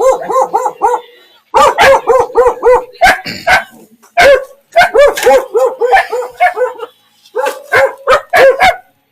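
A dog barking close by in quick runs of several barks, about three to four a second, with short pauses between the runs.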